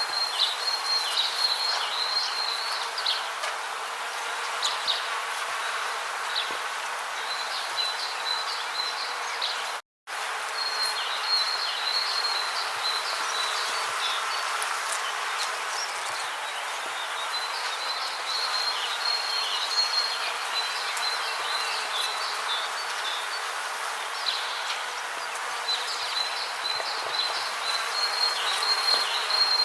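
Rain forest ambience: a steady hiss under a high trilling call that comes in bouts of a few seconds, about every five to eight seconds. The whole sound cuts out for a split second about a third of the way in.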